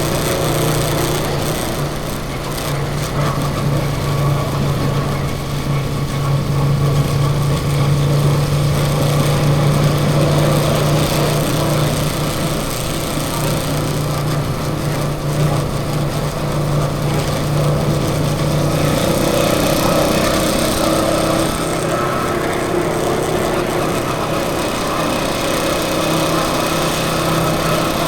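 A vehicle engine running steadily while driving, a constant low drone with road and wind noise over it.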